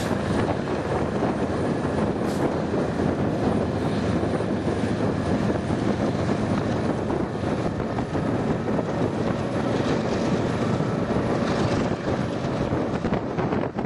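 Loaded coal train rolling past: a steady rumble from two BNSF diesel locomotives pulling away, with the wheels of the loaded coal hopper cars running on the rails.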